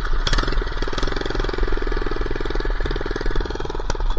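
Minibike engine running under way, a rapid, even pulse of firing strokes.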